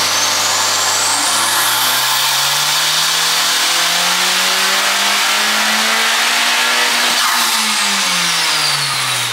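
Honda Civic Type R FK8's turbocharged 2.0-litre four-cylinder making a wide-open-throttle pull on a Dynapack hub dyno. The revs climb steadily for about six seconds with a high whine rising alongside, then drop back near the end as the run is lifted off.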